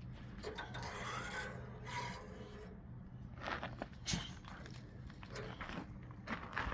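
Irregular scraping and rubbing, with a few sharp knocks, the strongest about four seconds in and again near the end.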